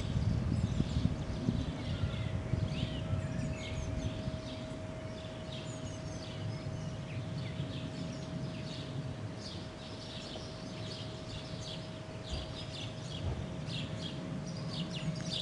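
Small songbirds chirping and singing in many short, high notes throughout, over a low rumble that is stronger in the first few seconds and a faint steady hum.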